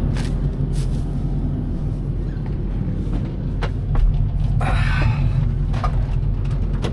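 Excavator diesel engine running steadily, with a few sharp clicks and a brief higher scraping sound a little past halfway.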